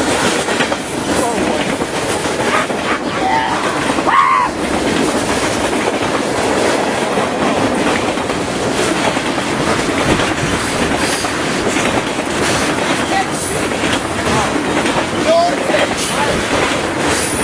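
BNSF freight train cars rushing past at speed, a loud steady rumble and clatter of wheels on the rails, with a brief rising-and-falling tone about four seconds in.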